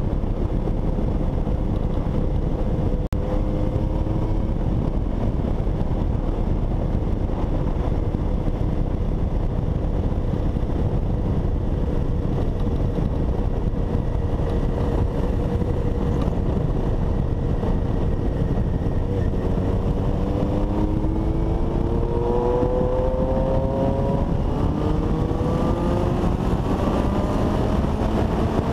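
Honda CBX 750 inline-four motorcycle engine under way, holding a steady speed at first, then accelerating hard in the last third with the pitch climbing several times as it pulls up through the gears. Heavy wind rush on the microphone runs under it throughout.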